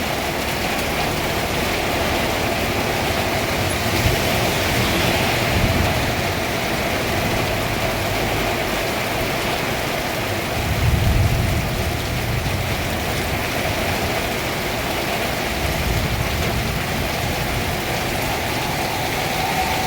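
Heavy rain pouring steadily in a strong hiss, with low rumbling swells a few seconds in and again about halfway through.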